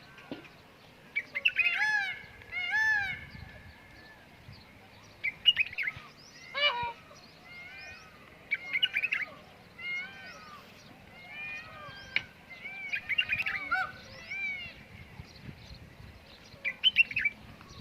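Birds calling: many short, arched chirps in quick clusters throughout, with two louder calls about two and three seconds in.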